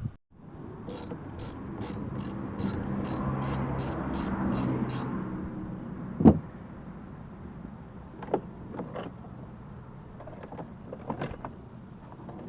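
A small motorised tool whirring for about five seconds with an even clicking about twice a second. This is followed by one sharp knock and a few lighter knocks.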